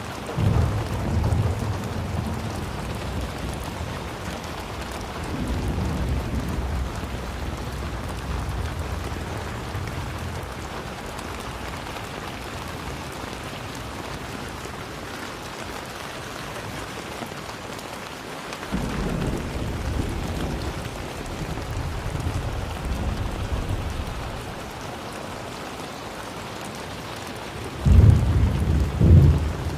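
Steady rain falling, with low rolls of thunder: one just after the start, another around five seconds in, a longer one about nineteen seconds in, and the loudest near the end.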